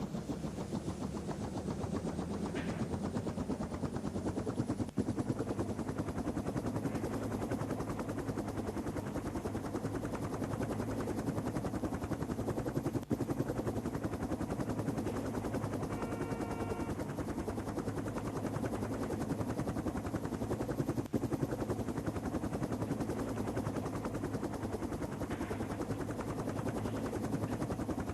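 Helicopter rotor blades chopping in a steady, rapid beat, with a brief high tone about halfway through.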